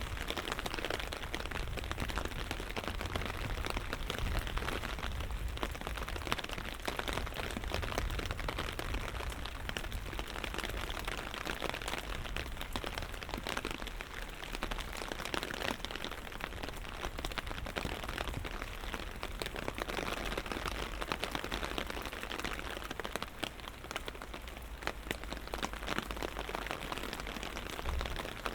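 Light rain falling steadily, a dense patter of small drop ticks over a low rumble.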